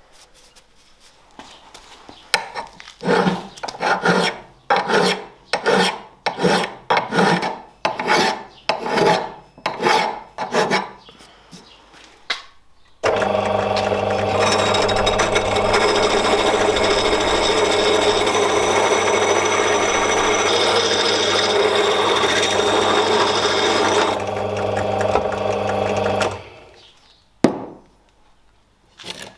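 About fifteen rhythmic hand strokes, each a little over half a second apart, like a file or abrasive working rusty steel. Then a power tool starts suddenly with a steady motor hum, runs for about thirteen seconds and winds down. Two short clicks come near the end.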